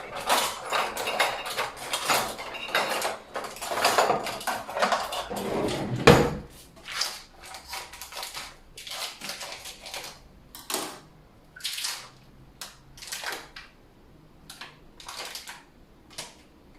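Kitchen handling sounds: dense rustling and clicking of items being handled, with one loud thump about six seconds in, then sparser clicks and rustles.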